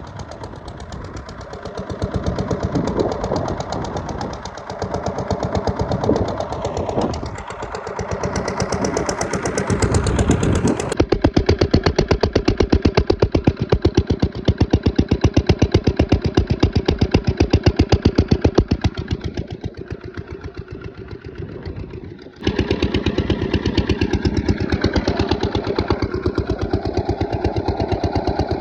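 8 HP diesel engine of an irrigation water pumpset running steadily, with a rapid, even chugging beat. The sound changes abruptly twice, about 11 and 22 seconds in.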